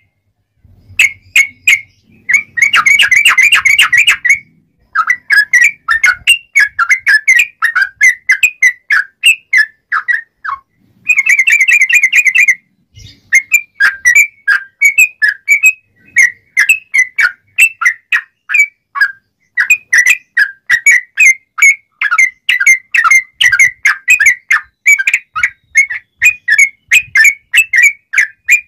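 Sooty-headed bulbul (trucuk) singing in a rapid, continuous run of short, clear whistled notes, broken by two denser chattering stretches, about three seconds in and again near the middle.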